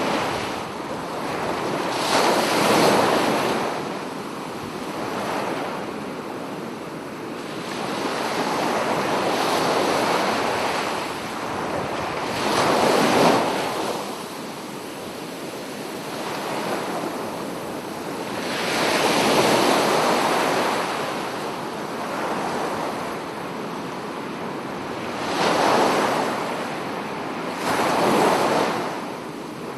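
Sea waves breaking and washing ashore, the surf swelling into louder surges every few seconds and then falling back.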